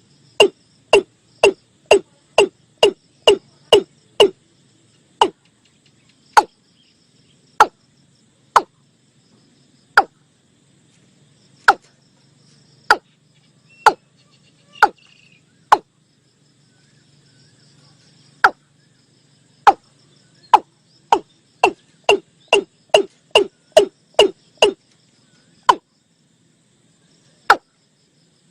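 Watercock calls: a series of short, hollow, knocking notes. They run quickly at first, then space out, and after a pause quicken again into another run.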